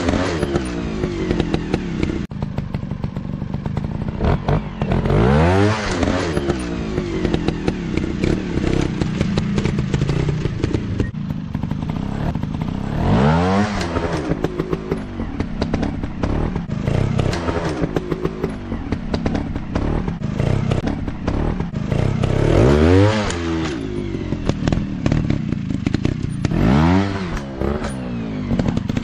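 Dirt bike engines running throughout, with the revs rising and falling back four times, about 5, 13, 23 and 27 seconds in.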